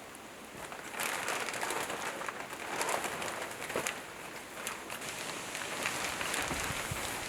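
Rain falling in a dense, steady patter of many small drops, growing louder about a second in.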